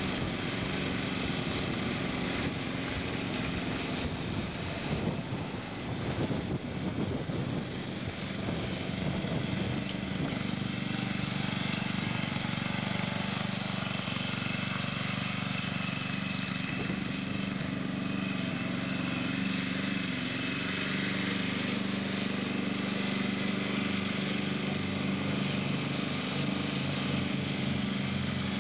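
Murray riding lawn tractor's engine running steadily while the tractor is driven. The sound wavers and dips briefly between about four and nine seconds in, then settles back to an even note.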